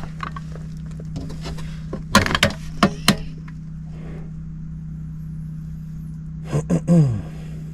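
Sharp metal knocks and clanks from sheet-metal ductwork and a zone damper being worked loose, over a steady low hum. The knocks come in a cluster about two to three seconds in and again near the end, the last with a short falling tone.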